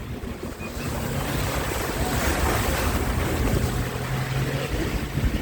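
Bus engine running with a steady low drone while the bus moves, with wind rushing over the microphone; the rushing swells briefly about two seconds in.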